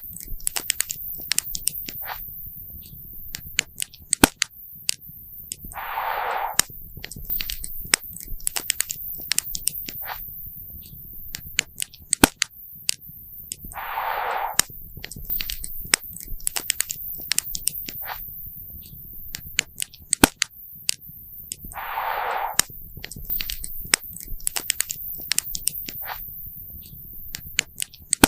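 Wood campfire crackling with many sharp, irregular pops and snaps over a low rumble. A brief rush of hiss comes back about every eight seconds.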